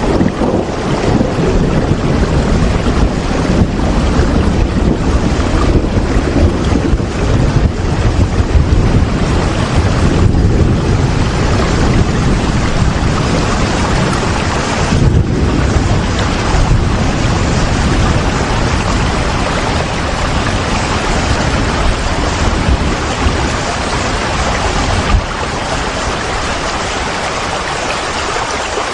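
Steady rain: a dense, even hiss with a lot of low-pitched noise underneath, unbroken throughout.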